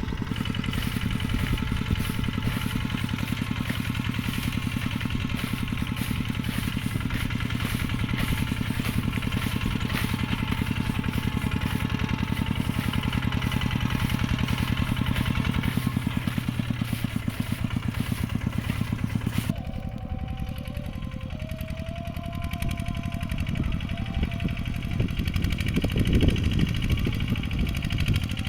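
Mini tractor's engine running steadily under way. About two-thirds through the sound changes abruptly and the higher part drops away, and it swells louder again near the end.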